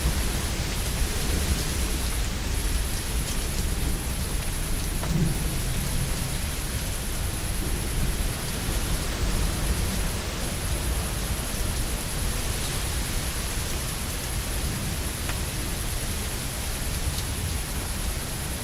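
Steady rain with a low rumble of thunder underneath, the rumble easing slowly.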